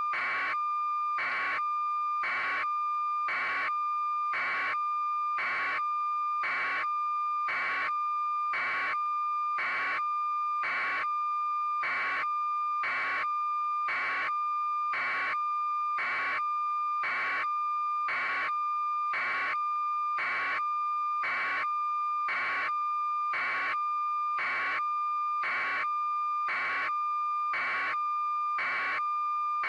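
Steady electronic tone with a short pulse repeating evenly about once a second.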